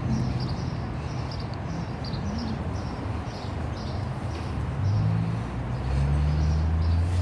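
A small bird chirping repeatedly, about two short high chirps a second, over a steady low engine hum that grows louder from about five seconds in.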